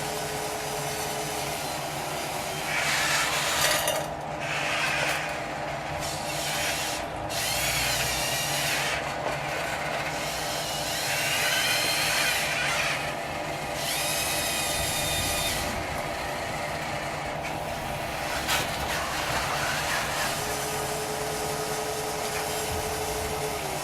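Radio-controlled model construction machine working: a steady electric hum with about seven short whines from its small electric motors and gears, several rising and falling in pitch as the machine moves.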